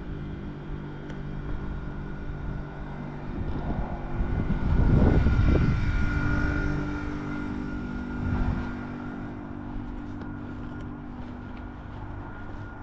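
A steady engine drone that swells louder for about two seconds, about five seconds in, then settles back.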